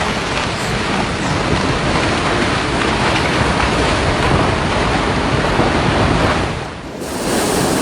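Loud, steady rush of torrential floodwater, dipping briefly about seven seconds in and then resuming, brighter, near the end.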